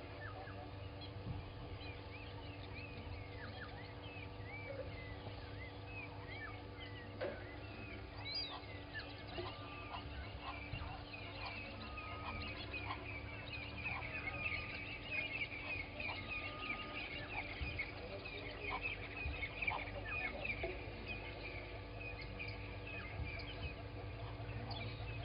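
Wild birds calling in a morning chorus, many short chirps and swooping whistles overlapping. The calling becomes busier and louder about halfway through. A faint steady electrical hum runs underneath.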